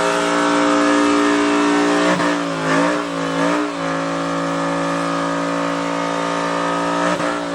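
A truck's engine held at high, steady revs in a burnout, with a brief wobble in pitch about three seconds in.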